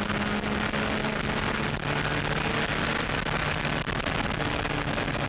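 Nissan GT-R's tuned RB26DETT twin-turbo straight-six running hard at high speed, heard from inside the cockpit. A steady engine note sits under heavy wind and road noise.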